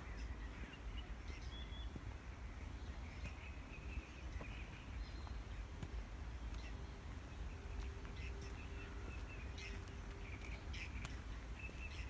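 Wild birds chirping and calling in short scattered notes, over a steady low rumble.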